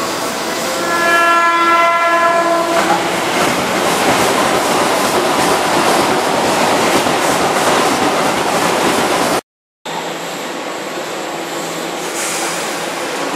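Keihan 2600-series electric train sounding its horn for about two seconds as it approaches, then running past close by with loud wheel and track noise. After a brief cut, the train stands at the platform with a low steady hum.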